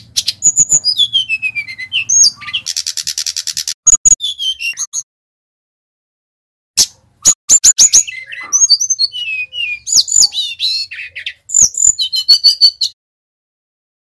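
Sikatan rimba dada coklat (a jungle flycatcher) singing a loud, fast, varied song of high whistled notes that slide downward, with a buzzy trill about three seconds in. There are two long bouts, with a pause of about two seconds between them.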